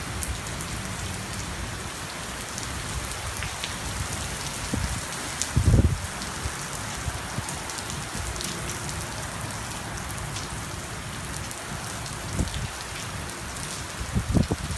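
Heavy rain pouring steadily during a storm, with scattered sharp ticks of drops striking. A brief low thump comes about six seconds in, and a few more come near the end.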